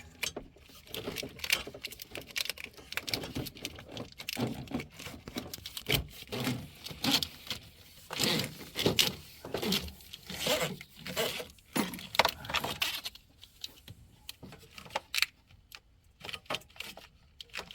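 Wiring and plastic clips being handled and routed by hand: irregular clicks, taps and rustles, thinning out about two-thirds of the way through.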